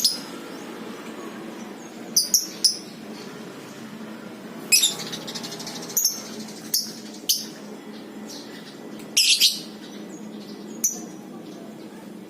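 Lovebirds giving sharp, shrill calls in short scattered bursts, about a dozen, with a brief rapid trill near the middle and a quick cluster a little after nine seconds, over a steady low hum.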